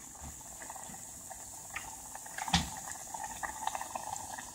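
Food frying in a deep fryer's hot oil: a steady bubbling sizzle with many small crackles, and one louder pop about two and a half seconds in.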